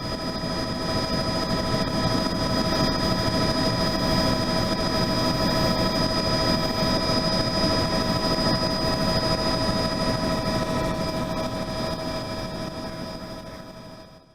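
Helicopter running: a steady engine whine with several high, unchanging tones over a broad rotor and engine rumble. It fades up at the start and fades down before cutting off at the end.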